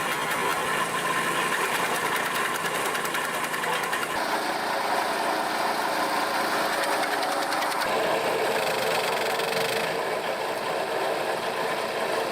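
Firewood-cutting machine running on its diesel engine, a steady mechanical din. The sound shifts abruptly about 4 and 8 seconds in.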